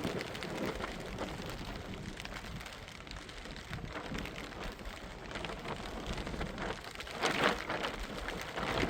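Steady rain falling on surfaces, a dense patter of drops, with a louder rush about seven seconds in.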